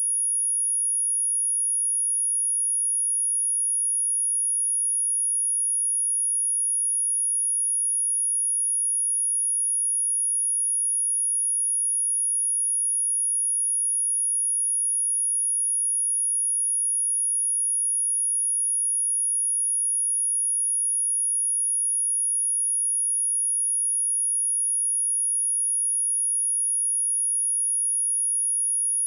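A steady, unbroken electronic sine-wave test tone at 10404 Hz, a single very high-pitched whistle-like pitch held at one constant level.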